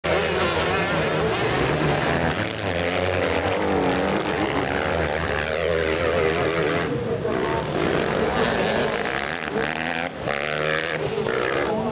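Several motocross bikes' engines running and revving together, their pitches rising and falling over one another.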